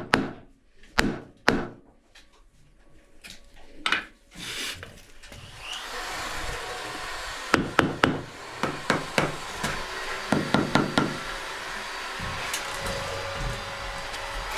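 Knocks and strikes on wood from hand tools at work: a few sharp separate blows at first, then quick runs of knocks over a steady rushing noise that sets in about a third of the way through.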